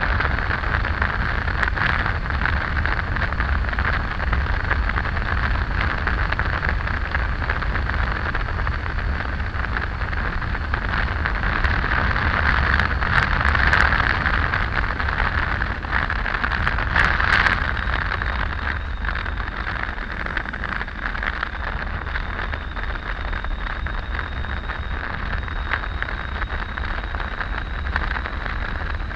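Steady wind rush and road noise from a Triumph Tiger 800 motorcycle on the move, with a low rumble underneath. The noise swells briefly about thirteen and seventeen seconds in.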